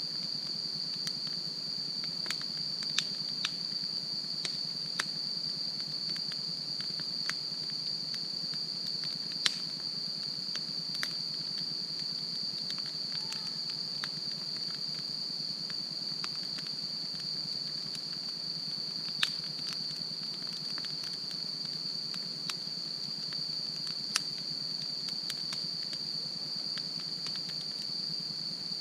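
Wood campfire crackling, with scattered sharp pops a second or more apart, over a steady high-pitched trill of insects.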